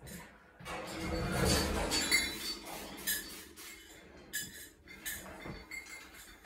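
Hard dishes clinking and rattling as they are handled. About a second in there is a rushing sound lasting a couple of seconds, with sharp clinks on top.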